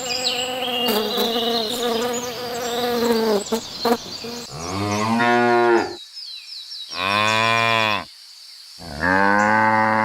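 Cow mooing: a long, higher-pitched call first, then three separate low moos, each about a second long. Insects chirp faintly behind the first part.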